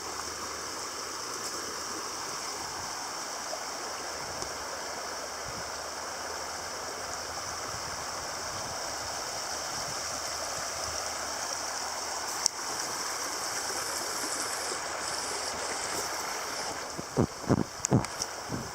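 Stream water flowing steadily over rocks. There is a sharp click about two-thirds of the way through, and a few short knocks near the end.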